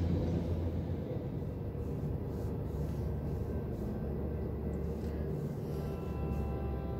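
Tri-Rail commuter train's diesel locomotive and double-deck cars rolling away after passing, a low rumble fading down. Near the end a steady sustained chord of music comes in.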